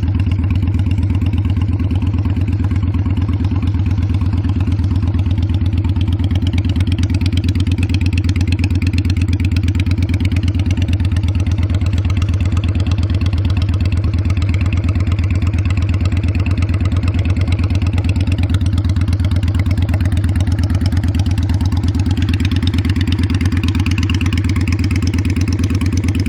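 Honda Steed 600 bobber's V-twin engine and exhaust idling steadily with an even, low pulsing beat.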